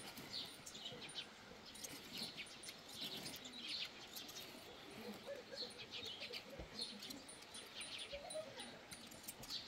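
Faint small-bird chirps, scattered short calls coming now and then over quiet ambience.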